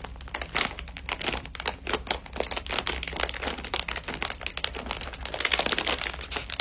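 Plastic candy wrapper crinkling and crackling in rapid, irregular clicks as it is handled and opened.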